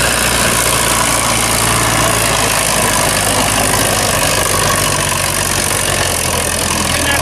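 Antique tractor engine running steadily at a low, even speed.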